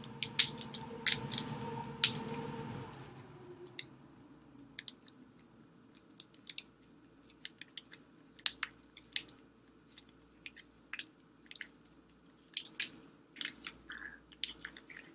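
Buldak spicy sauce sachets being squeezed out over noodles, with crinkling packet plastic and sticky, wet clicks at an uneven pace. A soft rushing noise fades out over the first few seconds.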